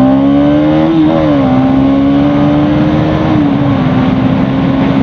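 Bajaj Pulsar NS200's single-cylinder engine under way, its pitch rising as it accelerates, dipping briefly about a second in, then holding a steady cruise, with wind noise over it.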